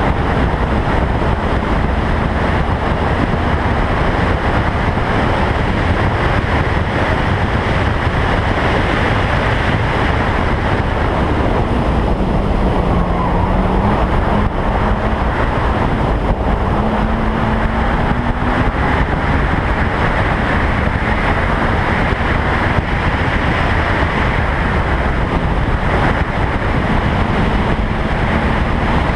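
Toyota Trueno race car at speed on a circuit, heard through a camera mounted outside the car: a loud, steady rush of wind over the microphone with the engine note underneath. The engine's pitch dips about halfway through, then climbs again as it accelerates.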